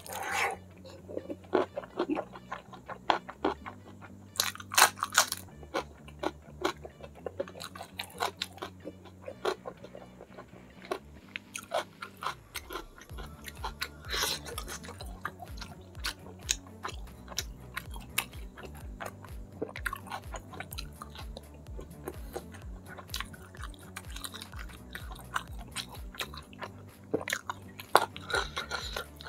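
Close-miked chewing and crunching as mouthfuls of rice and curried fish head, eaten by hand, are bitten and chewed, with many short wet clicks. Soft background music with low sustained notes runs underneath.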